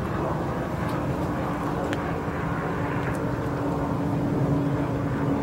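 A steady engine drone over outdoor background noise, with a hum that sets in about a second in and holds level.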